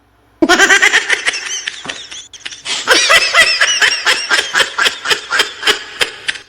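A laughing meme sound effect: a loud, high-pitched run of laughter starting about half a second in, broken into rapid pulses of about four or five a second, and stopping suddenly near the end.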